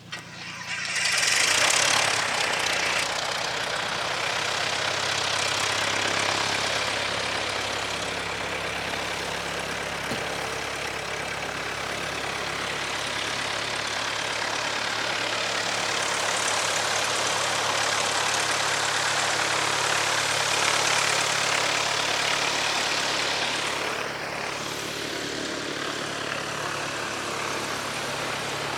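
Light propeller airplane's engine running steadily close by, with the rush of the propeller over it. It starts suddenly about half a second in, is loudest in the first couple of seconds, and eases slightly near the end.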